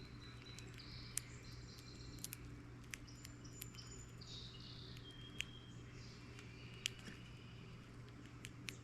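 Faint, high chirps and call notes from birds at a feeder, with sharp clicks scattered through, about half a dozen, over a steady low hum.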